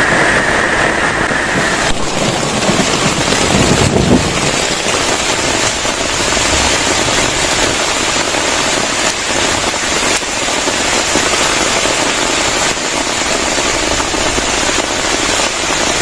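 Heavy rain pouring steadily, an even, dense hiss.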